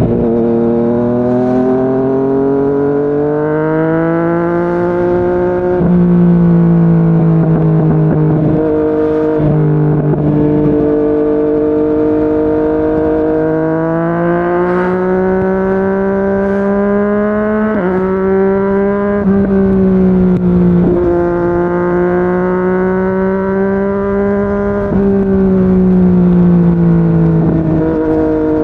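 Yamaha MT-09's three-cylinder engine running through a Yoshimura R55 slip-on exhaust at cruising speed. The engine note climbs and eases slowly, with several sudden pitch jumps where the gear changes.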